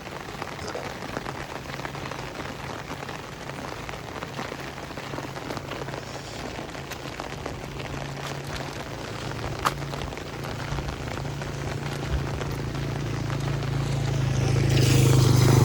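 Steady rain falling on surfaces. In the last few seconds a low engine hum grows steadily louder.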